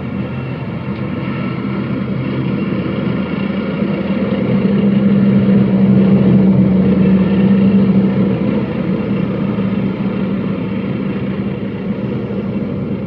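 Tractor diesel engine running steadily under load, growing louder around the middle and then easing back.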